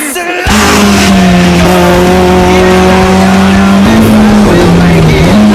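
Citroën Saxo rally car's engine heard from inside the cockpit, starting about half a second in and held at high revs at a steady pitch. About four seconds in the pitch drops briefly, then climbs again.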